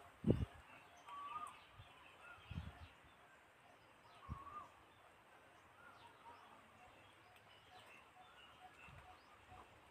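Birds calling faintly: short rising-and-falling calls every second or two, then a run of quicker, softer chirps in the second half. A few dull thumps in the first half, the loudest just after the start.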